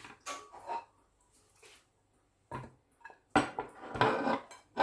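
Kitchen clatter from a knife, cutting board and dishes while raw chicken thighs are being cut and handled: a few short knocks and scrapes with quiet gaps, busier near the end.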